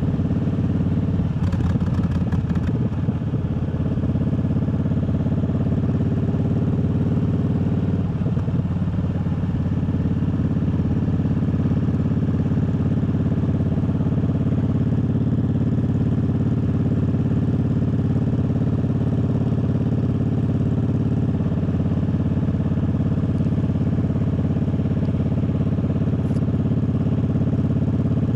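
Triumph Bobber's 1200 cc parallel-twin engine running at a steady speed, with a brief clatter about two seconds in.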